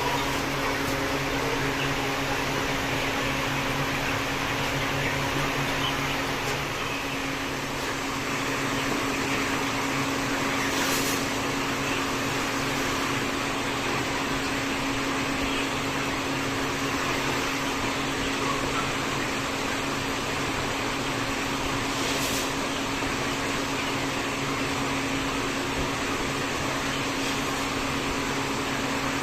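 Steady mechanical hum of machinery running, with a constant low drone and an even hiss throughout.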